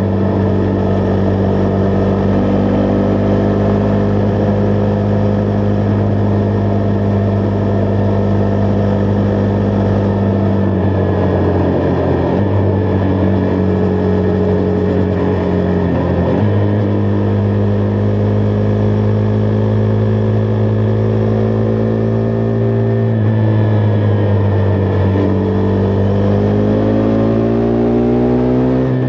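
Husqvarna Vitpilen 401's single-cylinder engine running steadily while the bike is ridden. Its note shifts and dips briefly a few times midway and climbs near the end as it accelerates.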